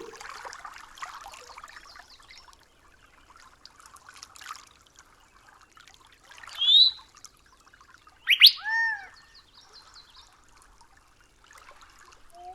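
Forest ambience: a faint steady trickle of water with two bird calls. About six and a half seconds in comes a short call of quick rising notes. About eight and a half seconds in comes a louder call, a sharp upward sweep followed by an arched, falling note.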